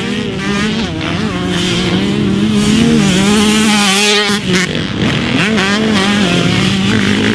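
Two-stroke Yamaha YZ motocross bike engine, a big-bore YZ125, revving hard and unevenly as the rider works the throttle. There is a brief dip in the note about halfway through before it climbs again.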